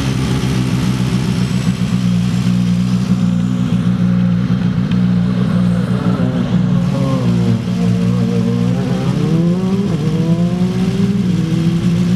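Rally car engine accelerating hard, its pitch climbing in the second half with a drop and renewed climb near the end, as on an upshift, over a steady low engine drone.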